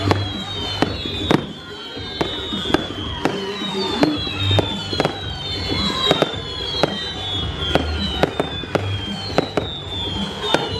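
Fireworks going off: many sharp bangs and cracks in quick, irregular succession.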